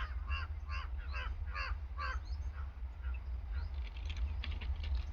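A bird calling, about six quick calls in a row over the first two seconds, then faint clicking near the end, over a steady low rumble.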